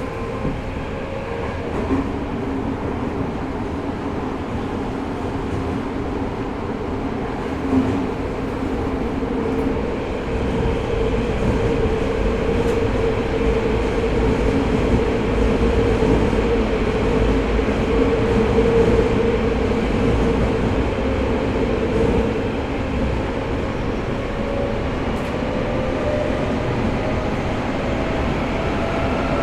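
Tokyo Metro 05 series subway train with Mitsubishi IGBT-VVVF drives, running between stations and heard from inside the car. There is a continuous rumble of wheels on rail and a steady motor hum, which fades about three-quarters of the way through, and then a tone rises slightly near the end.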